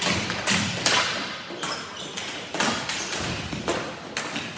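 Ball hockey play: sticks and the ball knocking, about eight sharp thuds and clacks spread irregularly through the few seconds, with a short echo after each.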